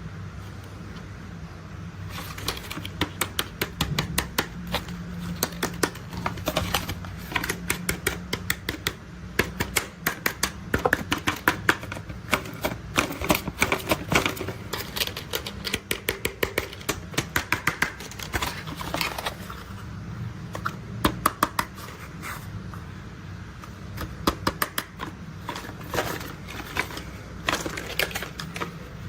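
Toy construction vehicles being handled: irregular clusters of sharp clicks and clatter of hard toy parts, thinning out for a moment about two-thirds of the way through, over a steady low hum.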